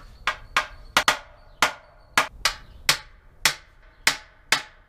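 Small hammer striking dents out of a steel truck body panel, with a larger hammer held behind it as a dolly. About a dozen sharp, ringing metal strikes come at an uneven pace of two or three a second.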